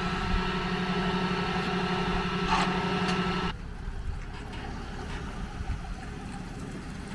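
A vehicle engine idling with a steady hum, cut off abruptly about three and a half seconds in, followed by a quieter, even background noise with a few faint clicks.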